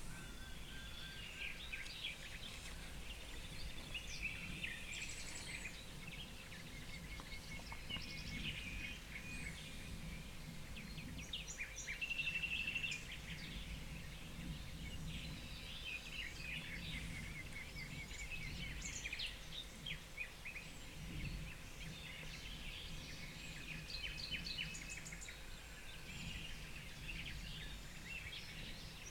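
Several songbirds singing and calling together: overlapping chirps, trills and whistles, with one louder, steadier high note about twelve seconds in, over a low background rumble.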